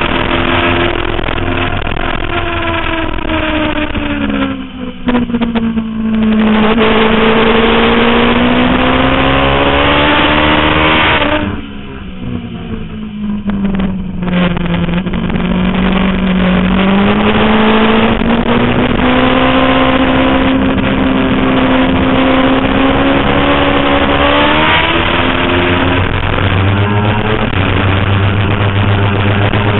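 Suzuki GSX-R 750 inline-four sport-bike engine running hard at high revs on a race track. Twice the revs fall away as the throttle closes and then climb again; the second time the sound goes noticeably quieter for a couple of seconds before picking back up.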